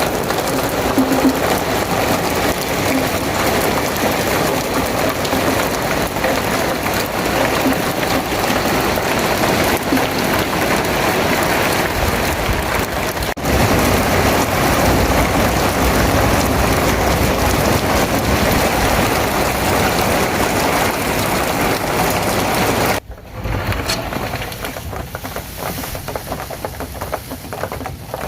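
Heavy rain falling in a steady, loud hiss. It changes abruptly twice; after the second change, near the end, it is quieter, with separate drops pattering.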